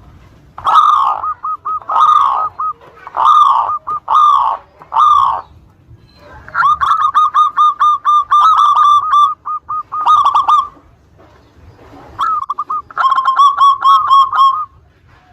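Zebra dove (perkutut) singing its cooing song of short notes repeated at about one pitch. It comes in three bouts with pauses between them: first about five longer coos, then a long fast run of quick notes, then a shorter fast run near the end.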